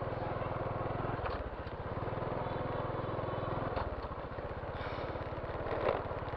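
Motorcycle engine running steadily with an even low pulsing, as heard while riding.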